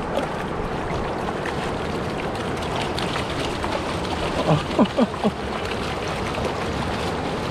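Ocean surf washing steadily onto a shallow beach. About halfway through, three or four short voice sounds slide downward in pitch.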